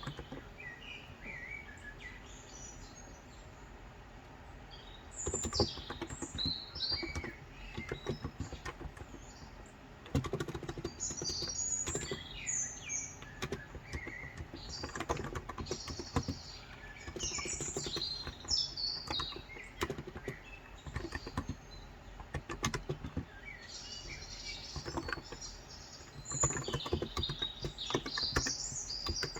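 Typing on a Cox Endeavor contactless (electro-capacitive) 35 g tenkeyless keyboard, in bursts of fast key presses with pauses between. Small birds chirp and twitter throughout.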